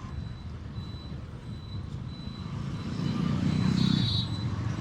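Motorcycle riding among traffic, a steady low engine and road rumble picked up by a mic inside the rider's helmet, with a short high-pitched horn beep about four seconds in.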